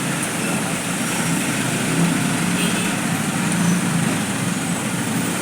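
Motorcycle riding along at a steady pace: a low engine note under steady wind and road noise.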